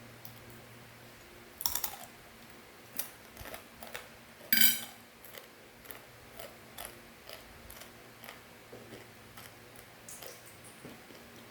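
Crunchy fried macaroni snack being eaten close to the microphone: scattered sharp crunches and clicks. The loudest is a brief ringing clink about four and a half seconds in.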